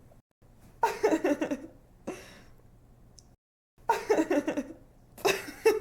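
A young woman giggling: three short bursts of quick 'ha-ha' pulses, with a quick breath after the first. There is a brief drop to dead silence between bursts, where the laugh sample loops.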